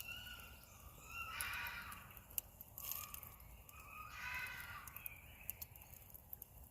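Two harsh, raspy screeching calls from an animal in the night woodland, each just under a second long and about three seconds apart, which the listener takes for some sort of owl. Faint scattered crackles sound between them.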